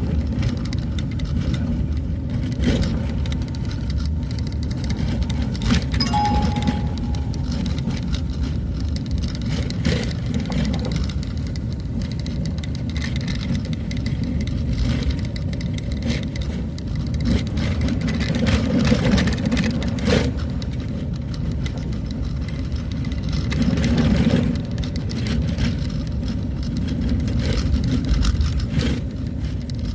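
A motor vehicle travelling along a road: a steady low engine and road rumble with a few short knocks and rattles.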